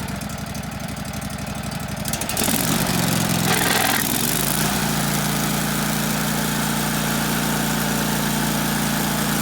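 Wood-Mizer LT15 Wide sawmill's engine idling with rapid, even firing pulses, then throttled up about two seconds in; after a brief hiss around three and a half seconds it settles into a steady, louder, higher-speed run. This is the mill's first test run after assembly.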